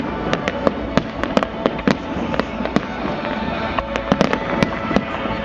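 Fireworks salute going off in a rapid, irregular string of sharp bangs, two or three a second, with the show's music playing underneath.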